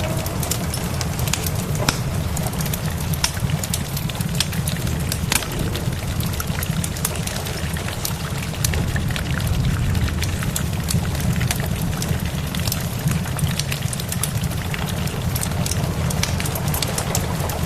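Wood fire crackling with sharp, irregular pops over steady rain, with a steady low rumble underneath.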